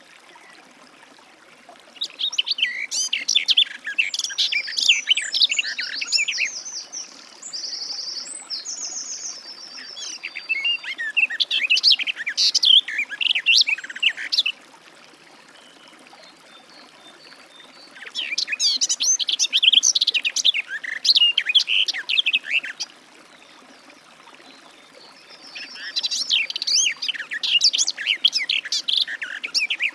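Garden warbler singing: four long runs of fast, continuous warbling, each lasting several seconds, with pauses of a few seconds between them.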